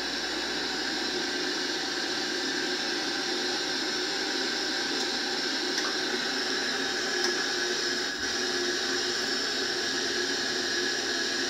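Ideal Isar gas combi boiler running after being switched on, its fan giving a steady hiss with a faint whine, during its ignition attempts.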